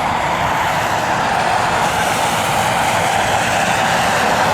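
Southwest Boeing 737's jet engines at takeoff power on a wet runway: a steady, loud roar that grows slightly louder.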